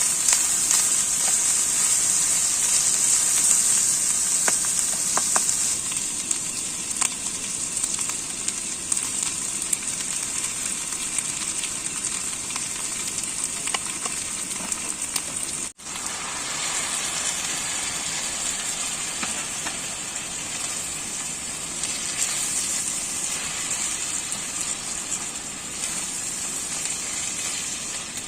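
Food sizzling in a pan on a camp stove: a steady hiss with faint scattered crackles, cutting out for an instant about 16 seconds in.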